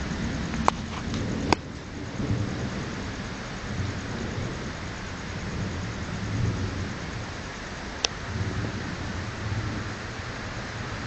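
Thunder rumbling and rolling low, swelling and fading, over steady rain from a close thunderstorm. A few sharp clicks cut through, twice in the first two seconds and once about eight seconds in.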